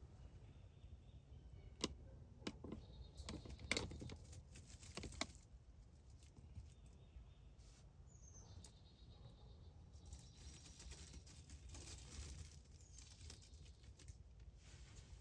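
Quiet woods: a cluster of sharp clicks and crunches in the first few seconds, then a few short, high, falling bird chirps.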